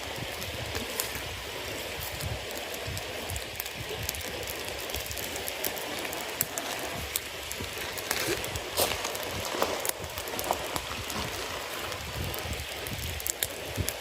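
Campfire burning wet cedar leaves and damp wood: a steady hiss with many small crackles all through, and a few louder pops a little past the middle.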